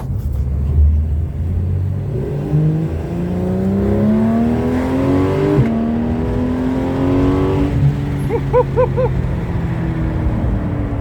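Porsche 911 flat-six engine accelerating, its pitch climbing steadily for a few seconds, then dropping suddenly at an upshift about halfway through and pulling on more gently in the next gear before easing off.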